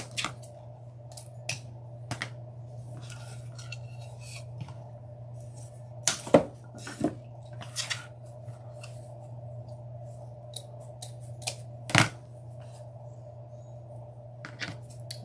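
Scissors snipping through ribbon in a series of sharp, scattered clicks, with the ribbon rustling as it is handled between cuts. The loudest snips come about six and twelve seconds in, over a steady low hum.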